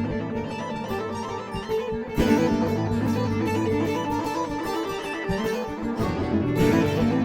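Korg M3 synthesizer workstation playing its 'Guitar Heavenly Pad' combi preset: a plucked-guitar pattern of quickly repeating notes, generated by KARMA, over a sustained synth pad. A louder entry comes about two seconds in.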